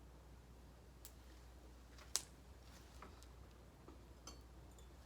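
Near silence with a low steady hum and a few faint, sharp clicks, about four in all, the loudest about two seconds in.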